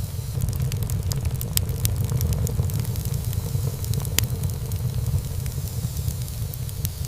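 Wood fire burning in a fireplace: a steady low rumble of flames with frequent sharp crackles and pops from the burning wood, one louder pop about four seconds in.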